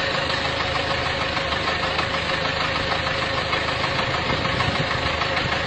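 A vehicle engine running steadily at a constant pace, with a steady mid-pitched tone over it.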